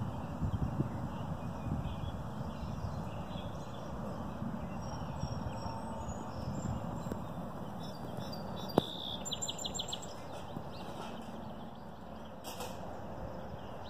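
Songbirds chirping outdoors, with a short rapid trill about nine seconds in and a single sharp click just before it. Footsteps on wood-chip mulch are heard near the start.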